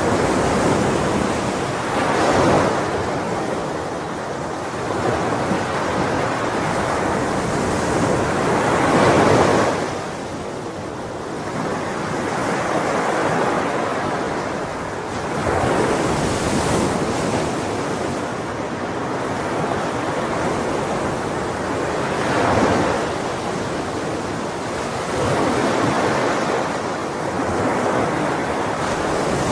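Ocean waves breaking on a shore, a continuous rushing wash that swells and eases every few seconds as each wave comes in.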